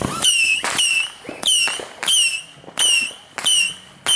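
Consumer firework cake firing a rapid, evenly spaced series of shots, about three every two seconds. Each shot is a sharp crack followed by a short whistle that dips slightly in pitch.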